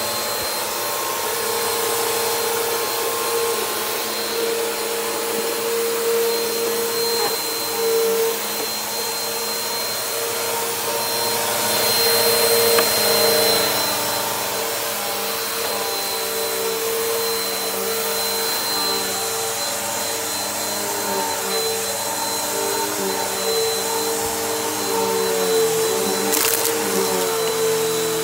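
Bissell PowerForce Helix upright vacuum cleaner running steadily, its motor hum and high whine constant. The rushing hiss swells briefly about twelve seconds in, and the motor pitch wavers up and down near the end.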